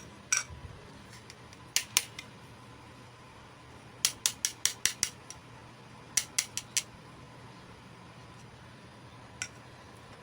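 Sharp little clicks and snips from unboxing miniature plastic toy pieces and their packaging: single clicks, then a quick run of about seven about four seconds in and four more about six seconds in.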